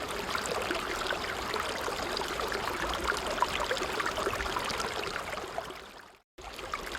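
A babbling stream flowing steadily, with many small splashes and trickles. About six seconds in it fades out to a moment of complete silence, then cuts back in abruptly, like a loop or edit point in the recording.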